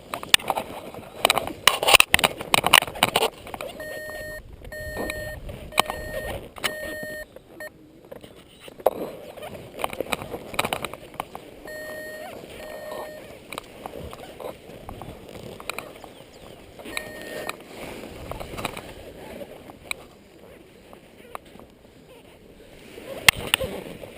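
Paragliding variometer beeping: short beeps of one steady pitch, about one a second, in a run of four, then a couple more and a single one later. Underneath is wind noise on the microphone, with loud crackling bursts near the start and near the end.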